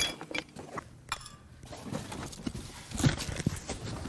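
Rustling and scattered light knocks and clicks of a car's floor carpet being pulled up and rolled out of the interior.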